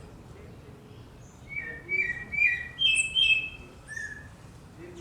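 Several birds singing a dawn chorus: short chirps and brief whistled notes, most of them in a quick run in the middle.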